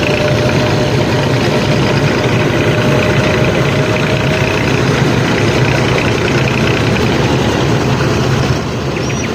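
Tractor engine running steadily at idle, dropping a little in level near the end.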